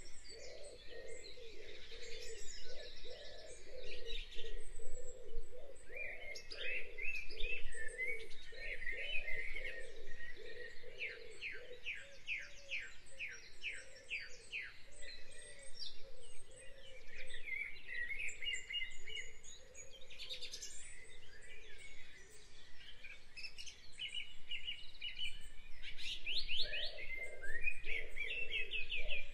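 Several birds singing and chirping: quick repeated chirps and fast trills, with a lower pulsing call running steadily underneath.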